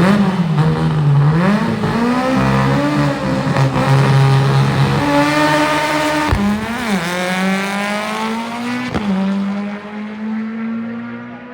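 Manual-shift drag race car's engine accelerating hard down the track, its pitch climbing through each gear. It drops sharply at a shift about six seconds in and again near nine seconds.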